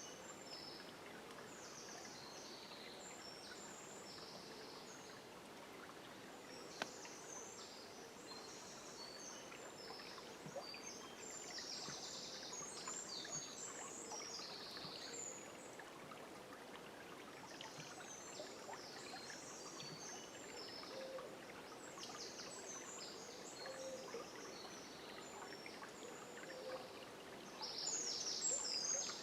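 Dawn chorus of forest birds: many short, high-pitched chirps and trills over the steady rush of a river, the calls growing louder near the end.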